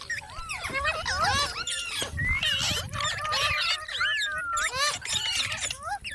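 A green parrot chattering nonstop, a rapid string of gliding, squeaky calls that rise and fall in pitch, some of them talk-like.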